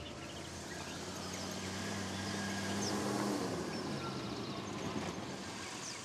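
Outdoor ambience: a vehicle's steady noise swells to a peak about halfway through and then fades, with birds chirping now and then.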